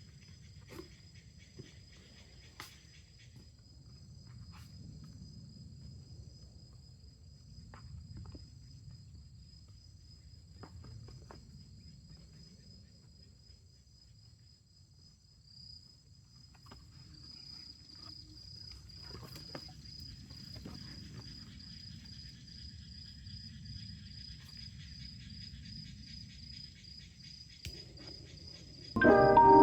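Insects chirping: a steady, high, finely pulsing trill that grows stronger about halfway through, over a low rumble with a few scattered soft clicks. Music comes in just before the end.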